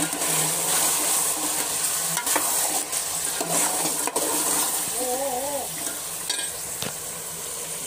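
Chicken pieces frying and sizzling in a metal pot while freshly added yogurt is stirred through with a slotted metal spoon, the spoon clicking and scraping against the pot several times.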